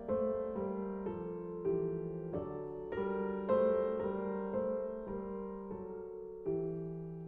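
Slow, gentle piano music: single notes and chords struck every half second or so, each ringing out and fading.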